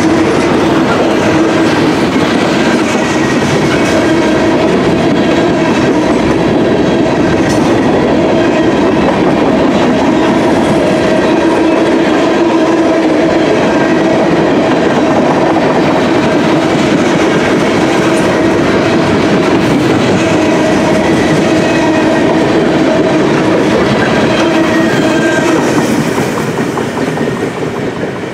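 Freight cars, double-stack intermodal well cars and then tank cars, rolling past close by: a steady loud rumble of steel wheels on rail with a constant ringing tone over it. The sound falls away about two seconds before the end as the last cars draw off.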